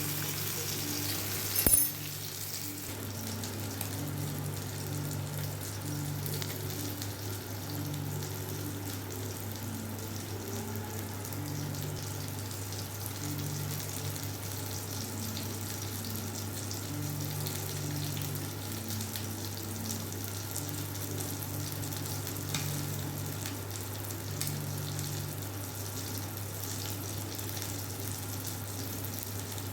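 Tandoori chicken pieces sizzling steadily as they cook on a dosa tawa (flat iron griddle), with one sharp knock about two seconds in and a steady low hum underneath.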